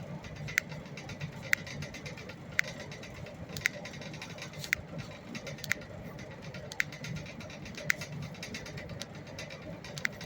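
Loud clicking from a left foot as it is rotated: one sharp click with each turn of the foot, about once a second, nine in all, with a longer pause before the last.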